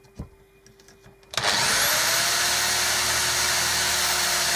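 Electric drill starting about a second and a half in, its motor whine rising quickly and then running steadily at full speed while drilling small holes in wood. A couple of light clicks come before it starts.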